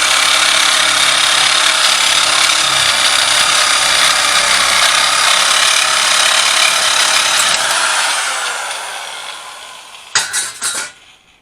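A handheld power tool running under load on sheet metal, then winding down with falling pitch from about eight seconds in. A few sharp knocks follow near the end.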